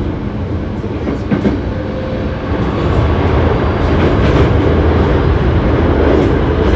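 Running noise of a Hankyu 7300 series electric train heard from inside the car at speed: a steady low rumble of wheels and motors with a few short clicks, growing louder about two and a half seconds in. This car is known for an unusual running noise.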